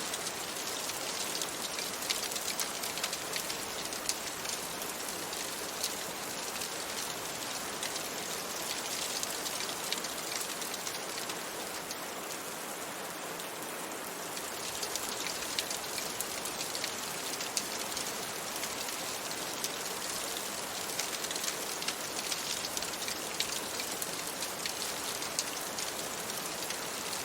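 Steady rain falling on a window and surfaces, an even hiss scattered with many small drop ticks.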